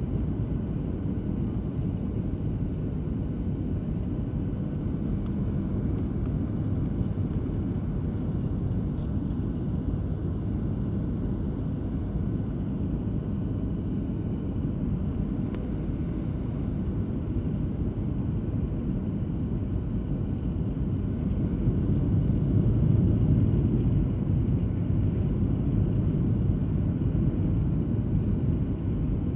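Airliner cabin noise on final approach: the engines and airflow give a steady low rumble. It swells about 21 seconds in as engine power is raised to hold the approach in gusty wind.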